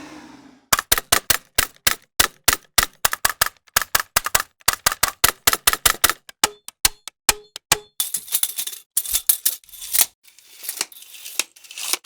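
A rapid run of sharp clicks, about four to five a second. After about six seconds they thin out into a few spaced clicks with short low tones, then give way to denser clattering.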